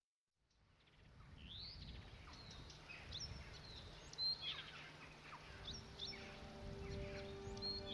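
Small birds chirping and twittering over a low outdoor ambience that fades in after a brief silence. A steady low musical tone comes in during the second half.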